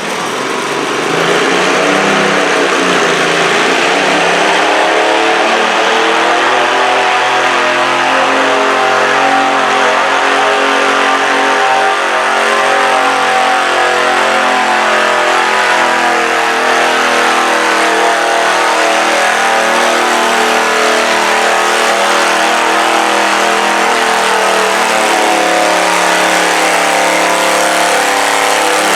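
A stock garden tractor's engine revving up over the first couple of seconds, then held at a high, steady speed under heavy load while it pulls a weighted stoneboat.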